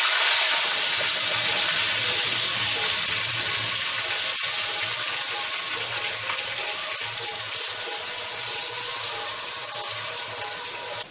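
Sliced onions frying in hot oil in a kadai: a loud, dense, steady sizzle that slowly eases off, with a light knock of the wooden spatula about four seconds in.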